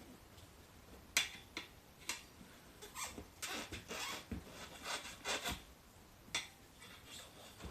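Hand work on a motorcycle tyre and wheel rim: intermittent short scrapes, rubs and clicks of rubber and metal, with a quick run of them in the middle.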